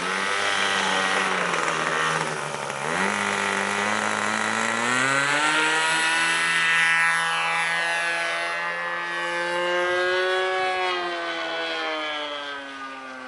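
Model airplane engine throttling up for takeoff about three seconds in, then running at high speed with its pitch wavering as the plane flies, sliding lower and fading near the end.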